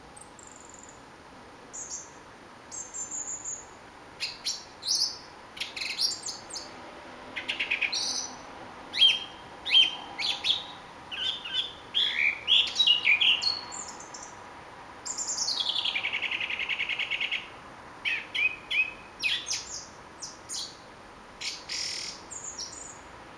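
A thrush singing: a string of short, varied whistled and trilled phrases with brief pauses between them, and a long rapid trill about fifteen seconds in.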